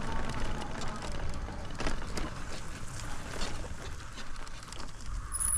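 Folding e-bike being ridden over a dirt track: steady rolling noise from the tyres and bike, with scattered small crackles and clicks.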